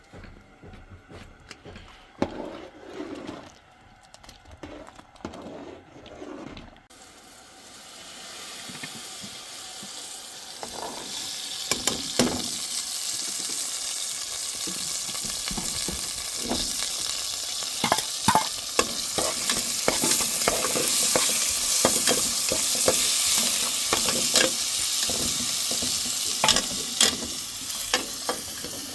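Food frying in a pan: after a few soft knocks, a sizzling hiss starts about a quarter of the way in, builds over several seconds, then holds steady with many crackles and clicks of stirring.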